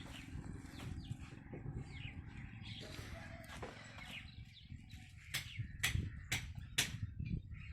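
Small birds chirping over a low steady rumble. About five seconds in, sharp knocks begin, roughly twice a second.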